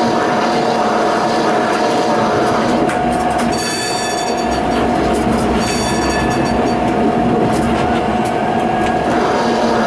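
Tram running along the track with a steady whine over the running noise. High wheel squeal sounds from about three and a half to seven seconds in.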